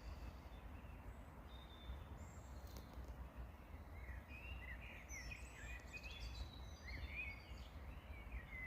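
Songbirds singing outdoors over a steady low background rumble. The song is sparse at first and becomes a busy run of quick chirping phrases from about halfway through.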